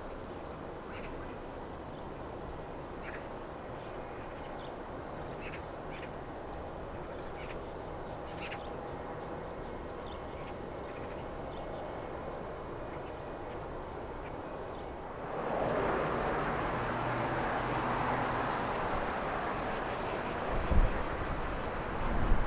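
Open-air hiss with faint, scattered bird chirps. About fifteen seconds in, a loud, steady, high-pitched insect buzz, typical of cicadas, starts abruptly over a broader hiss. Near the end a low rumble starts to build.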